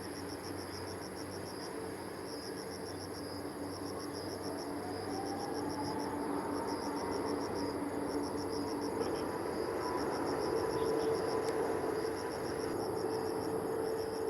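Jet airliner starting its takeoff run. The broad engine rumble grows steadily louder, with a faint whine rising in pitch partway through. Insects chirp throughout in rapid pulsing trains that stop and start.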